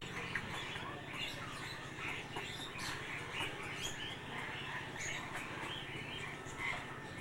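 Many small birds chirping and twittering in short, scattered calls, with a low steady hum underneath.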